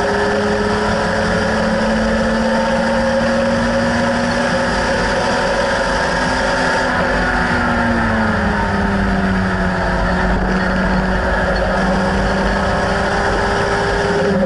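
BMW E30 race car's engine running steadily at speed, heard from inside the stripped cabin over road and wind noise. The engine note climbs slightly about six seconds in, then drops to a lower steady pitch about two seconds later.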